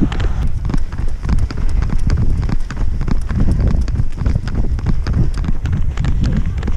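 Footfalls of many runners in a race pack, a dense, irregular patter of steps throughout.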